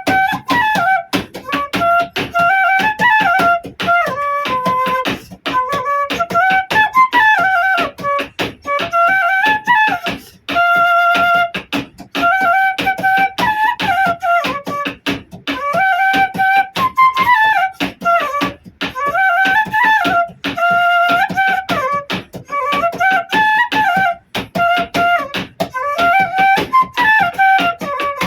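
Bansuri (bamboo flute) playing a folk melody in short repeating phrases that rise and fall, with brief pauses for breath between them.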